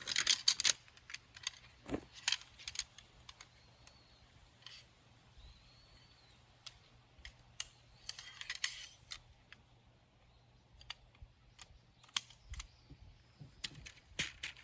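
Handling sounds: a burst of rustling at the start and another about eight seconds in, with scattered small clicks and knocks in between.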